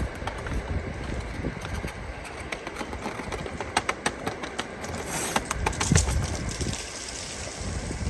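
Uneven low rumble of wind on the microphone, with a few sharp clicks and a louder clattering rustle about five to six seconds in.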